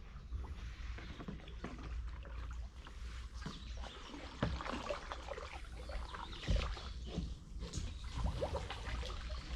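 Kayak paddling: a paddle dipping and dripping water, with scattered small splashes and knocks.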